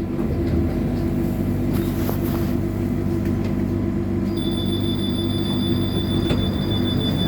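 Trolleybus electrical equipment humming steadily at an unchanging pitch. About four seconds in, a thin high-pitched whistle starts and holds.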